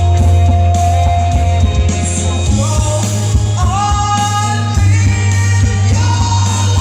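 Loud live rock music: a steady heavy bass under long held melodic notes, sung or played, that slide from note to note.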